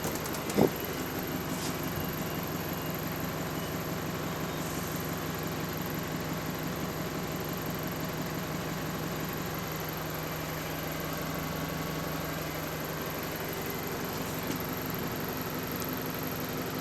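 Alexander Dennis Enviro400 MMC double-decker bus engine running steadily, heard from on board, with one short thump about half a second in.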